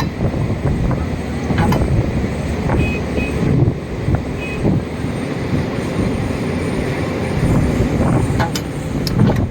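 Tracked excavator's diesel engine running with a loud, steady low rumble, with a few sharp metallic clanks, one about a second and a half in and a few near the end.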